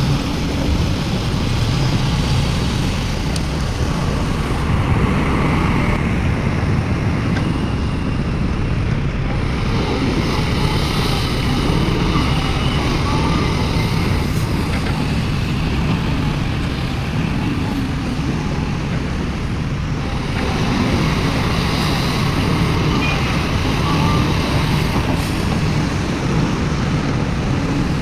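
Heavy earthmoving machinery's diesel engines running steadily, the loudness swelling and easing a little.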